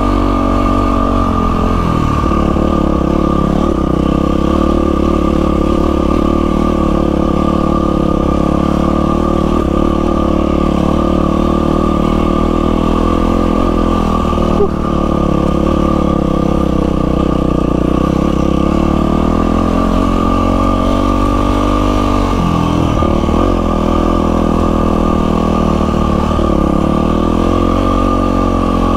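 Yamaha WR450F's 450 cc single-cylinder four-stroke engine running under way on a dirt trail, its pitch rising and falling as the throttle is opened and eased off. One sharp click about halfway through.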